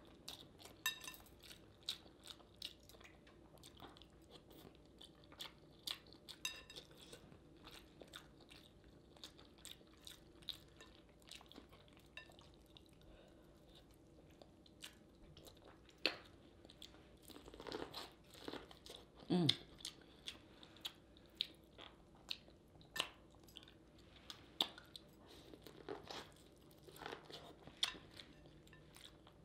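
A person eating close to the microphone: chewing with wet mouth clicks and lip smacks, in irregular short bursts, a few of them louder in the middle stretch.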